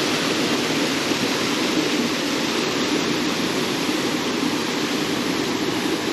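Steady rushing of a small waterfall and rocky stream, even and unbroken.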